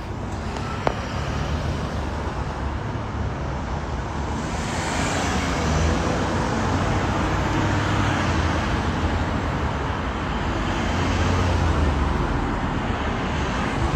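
Loud, steady rumble of vehicle noise that swells about four seconds in and stays up.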